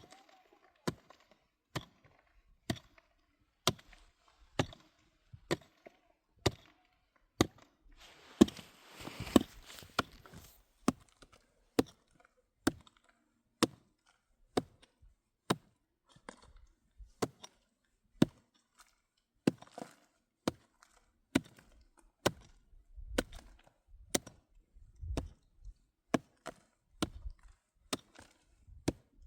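Steady series of sharp chopping blows, about one a second, with a short rush of noise about a third of the way through.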